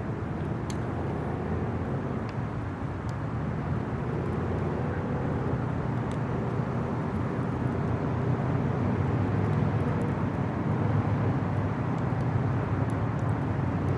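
Wood fire burning in a small camp fire stand: a steady low rumble with a few faint crackles, growing slightly louder toward the end.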